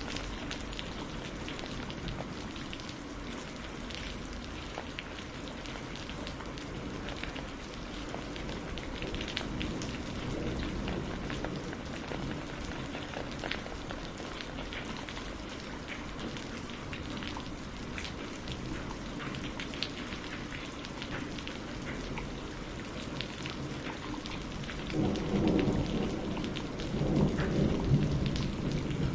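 Steady rain falling, with individual drops ticking on a surface. A low rumble of thunder swells in near the end.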